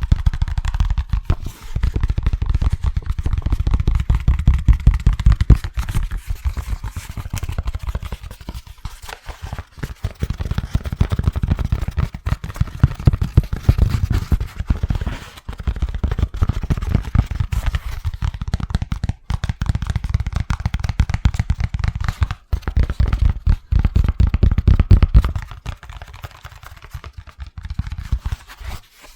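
Fast, hard fingertip tapping on an object, dense rapid taps in runs of a few seconds with brief lulls, quieter near the end.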